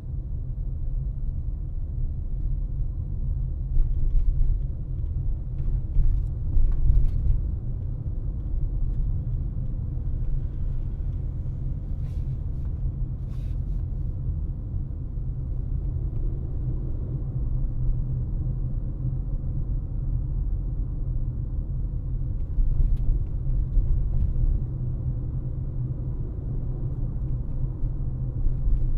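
Steady low rumble of a car driving, road and cabin noise, with a few light knocks along the way.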